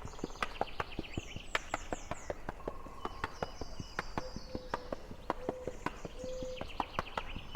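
Birds singing, with rapid chirped trills and quick downward-slurred notes, over a steady scatter of sharp irregular clicks.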